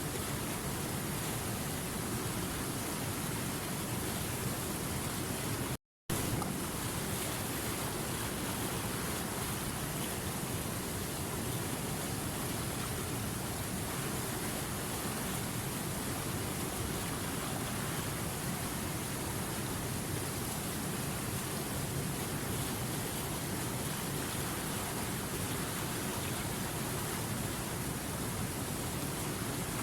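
Running river water: a steady, even rush of flowing water. The sound cuts out completely for a split second a little before six seconds in, then resumes unchanged.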